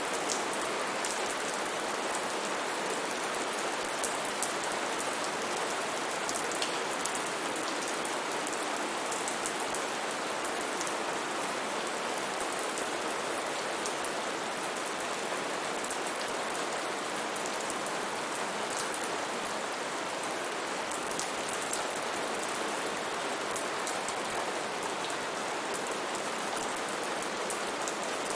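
Steady rainfall, an even hiss with scattered sharper drops ticking close by.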